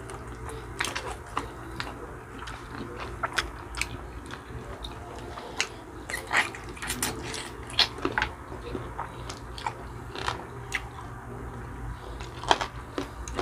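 Two people chewing and biting into braised chicken feet (adobo), eaten by hand: irregular wet clicks, smacks and small crunches of mouth sounds.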